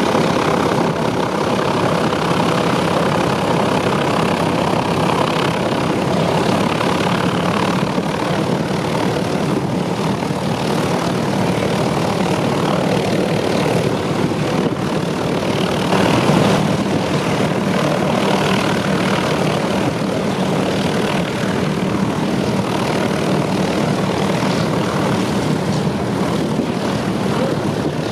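Douglas DC-3/C-47 Dakotas' radial piston engines and propellers running steadily and loudly, with a brief swell in loudness about halfway through.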